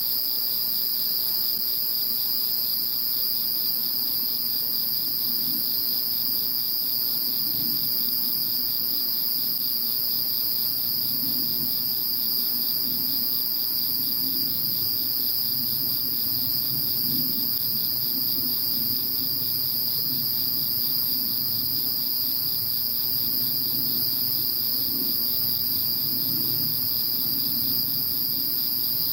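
A chorus of insects calling continuously after a typhoon, several steady high-pitched trills layered together, over a faint low rumble.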